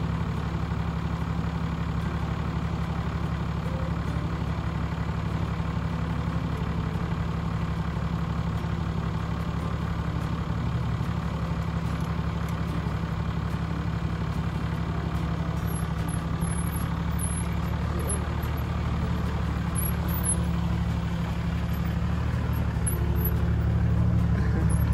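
4x4 vehicle's engine idling with a steady low rumble, growing slightly louder near the end.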